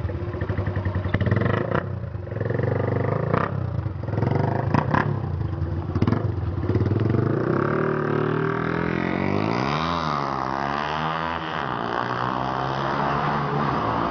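Suzuki motorcycle engine running through its exhaust, crackling and popping at first. About seven seconds in it revs up, dips and climbs again around ten seconds in, then holds at high revs.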